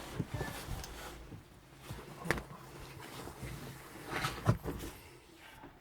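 Scattered faint knocks and rustling, with sharper knocks about two and four and a half seconds in.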